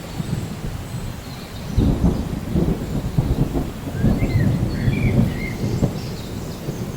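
Thunder rumbling over steady rain, swelling about two seconds in and easing off near the end. A bird gives a few short chirps midway.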